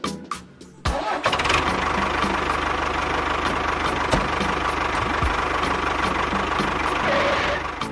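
A motor starts up about a second in, runs steadily with a low, even pulse, and stops just before the end, over background music with a steady beat.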